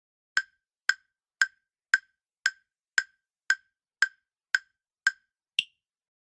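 Countdown timer sound effect: eleven sharp ticks at about two a second, the last one higher in pitch, marking the answer time running out.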